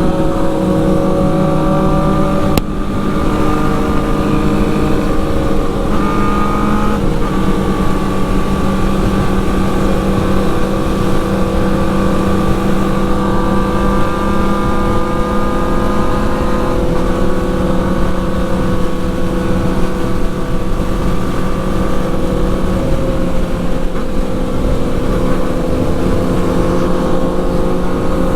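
Motorcycle engine running at steady, nearly constant revs while riding, its pitch drifting only slightly, with a brief dip in sound about two and a half seconds in.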